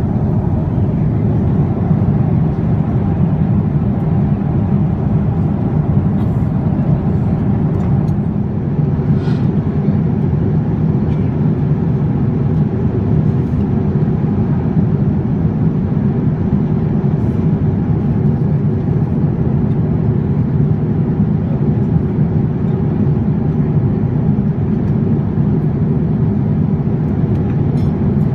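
Steady cabin noise inside a Boeing 787-9 airliner: an even, low rumble of engines and airflow with no change in level.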